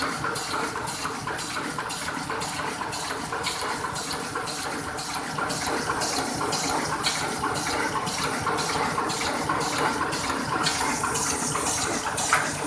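Paper printing machine running, a steady mechanical noise with a fast, continuous run of clacks.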